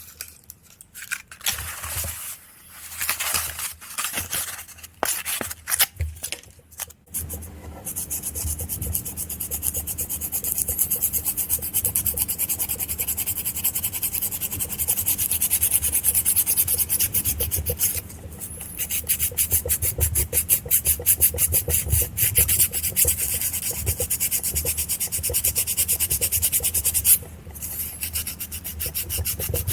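Hand sanding with 400-grit sandpaper on the rusty parts of a motorcycle ignition switch, scrubbing off the rust. It starts as a few separate short strokes, then settles into quick, steady back-and-forth rubbing, pausing briefly twice.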